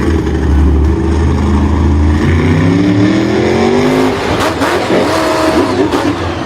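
A vehicle engine running loudly, its pitch rising steadily as it revs up over about two seconds, then breaking into rougher noise with brief squealing tones.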